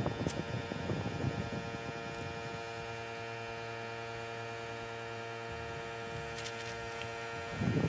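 Steady electric hum of an air compressor's motor running, with some knocking and handling noise in the first second or so and a short low thump near the end.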